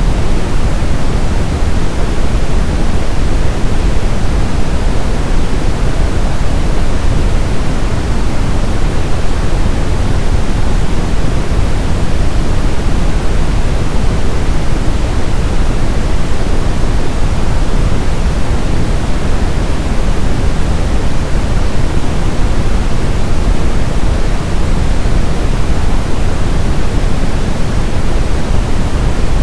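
Brown noise: a steady, deep hiss with most of its energy in the low end, rolling off toward the highs, unchanging throughout.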